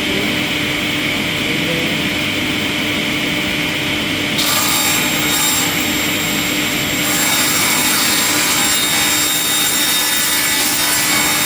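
Wood-processing machinery running steadily with a constant hum. About four seconds in, a loud hissing cut into wood starts and carries on to the end.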